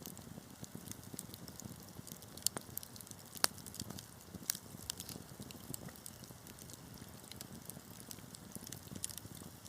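Wood fire crackling in a fireplace: a steady low rush of burning with frequent sharp pops and snaps, a couple of the loudest pops coming a few seconds in.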